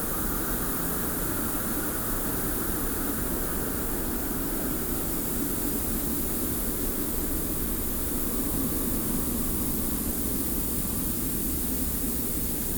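Steady desert wind with a hiss of blowing sand, an even rushing noise without gusts or breaks; a higher layer of the rush fades out over the first few seconds.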